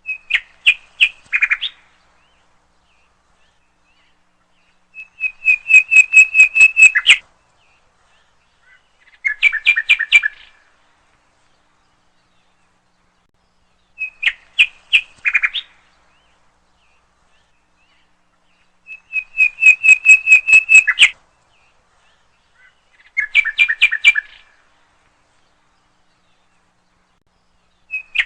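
A bird singing: short phrases of rapid chirping notes, each lasting one to two seconds, repeated about every four to five seconds with silence between.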